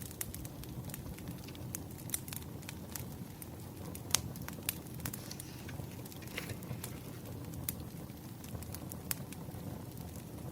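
Burning wood fire crackling, with irregular sharp pops over a low, steady rumble of the flames.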